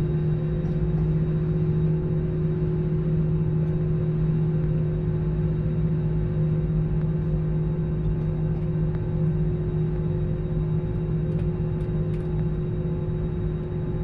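Steady cabin drone of a jet airliner in flight: a constant low hum with two steady tones over a wash of rushing air noise.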